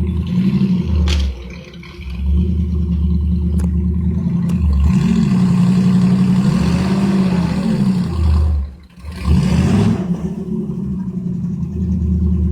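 Heavy machine's diesel engine working hard under load, its pitch sagging and rising again several times. Its sound drops away briefly about nine seconds in, then picks back up.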